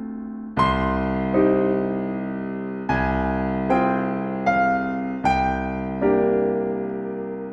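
Solo piano playing a slow, gentle piece: soft chords and melody notes struck roughly once a second and left to ring and fade.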